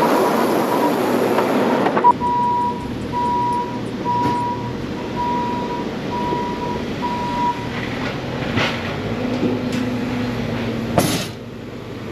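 Sawmill running, then shutting off abruptly about two seconds in. A high electronic beep then repeats about once a second, six times, followed by a few clanks and a sharp knock near the end.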